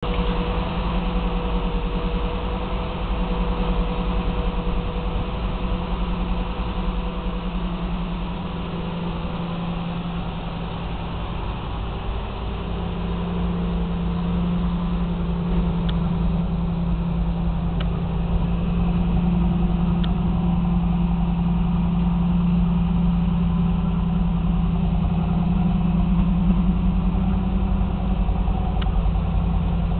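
1986 Pontiac Firebird Trans Am's 305 TPI small-block V8 idling steadily. It gets somewhat louder from about halfway through.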